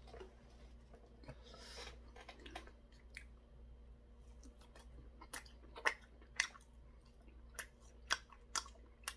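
Chewing a battered, deep-fried shrimp (Korean twigim), with short crisp crunches about twice a second in the second half.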